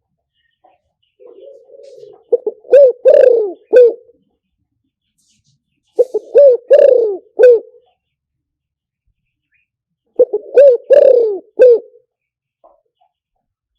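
Spotted dove cooing: three phrases a few seconds apart, each a short run of low coos that bend in pitch. It is a decoy call played to lure wild spotted doves.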